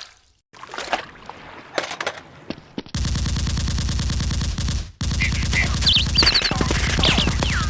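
Automatic gunfire sound effect: a rapid, continuous burst of about two seconds, a brief break, then a second burst of about three seconds with high whistling tones over it.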